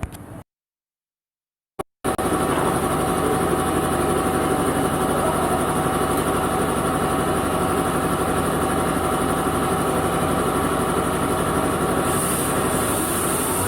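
Yamaha R6 motorcycle's inline-four engine idling steadily. It cuts in about two seconds in, after a brief silence and a click.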